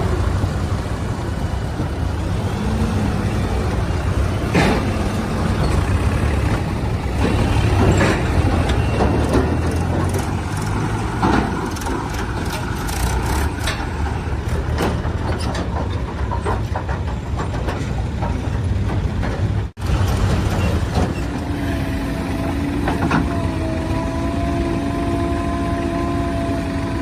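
Heavy diesel machinery running steadily under load, with scattered knocks and clanks. The sound drops out briefly about two-thirds of the way through, and afterwards a steady whine joins the engine noise.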